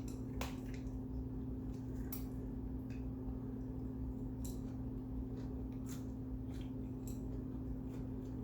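Quiet eating sounds: soft, scattered mouth clicks and squishes from chewing rice-filled kimbap, over a steady low electrical hum.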